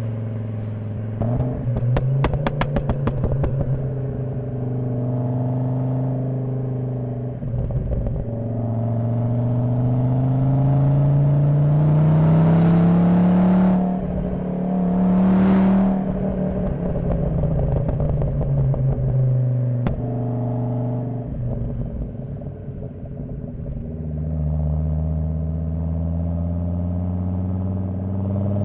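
Volvo 850 T5's turbocharged 2.3-litre inline-five (B5234T3) through a Magnaflow exhaust, heard at the rear bumper while driving. It crackles and pops for the first few seconds, then pulls with steadily rising pitch, dips and rises again around the middle, eases off with falling pitch, and picks up again near the end.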